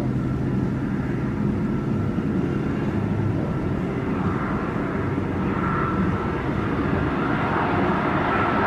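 Jet airliner engines running with a steady rushing noise and a whine that grows stronger over the second half, as the aircraft's sound builds toward the end.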